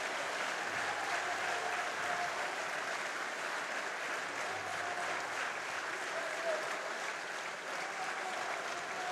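Lawmakers in a parliament chamber applauding steadily, a dense, even clapping that holds at one level throughout, with faint voices underneath.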